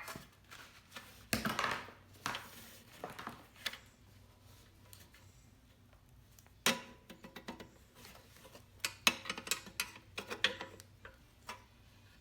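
Irregular clicks, knocks and short scraping sounds of hands working on a lawnmower's recoil starter and its rope. The sharpest knock comes about seven seconds in, with a cluster of clicks a couple of seconds later.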